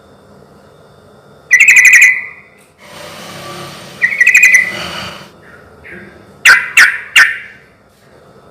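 Yellow-vented bulbul (trucukan) singing: two loud, rapid bubbling phrases, then three short sharp notes near the end. A brief hiss of noise falls between the first two phrases.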